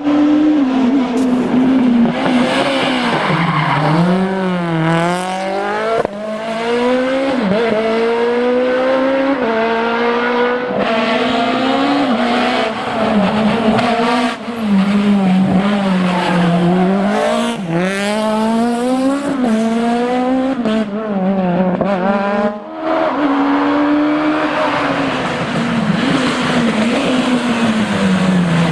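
Citroën Saxo Kitcar rally cars' four-cylinder engines revving hard, pitch climbing through each gear and dropping at the shifts, over and over. Several passes are joined with abrupt cuts.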